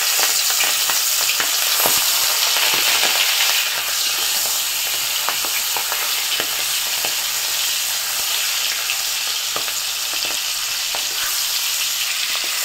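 Salt-and-turmeric-coated prawns sizzling steadily in hot mustard oil in a kadai, with a wooden spatula scraping and turning them now and then.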